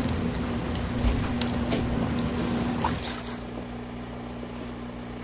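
Small portable RV washing machine's electric motor running with a steady hum and a few light clicks; about three seconds in the hum shifts to a lower, quieter set of tones.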